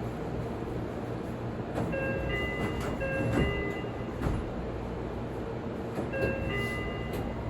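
Seibu 40000-series electric train standing at the platform, its equipment humming steadily. An electronic chime of several steady tones sounds twice, about four seconds apart.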